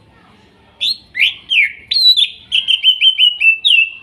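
Cucak ijo (green leafbird) singing. It gives a few loud down-slurred whistles, then a quick run of short repeated notes near the end.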